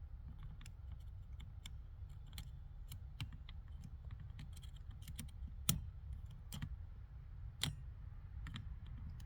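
Scattered light clicks and taps from wires and connectors being handled and probed with a tester, a few of them sharper in the second half, over a low steady hum.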